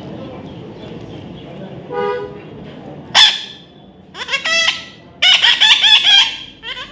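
Baby parrot squawking: a short call, then a sharp loud one, then rapid runs of harsh, repeated calls that grow louder towards the end.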